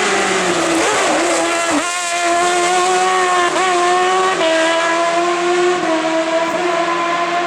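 Hill-climb race car engine running hard at high revs. Its note dips and steps in pitch at several quick gear changes.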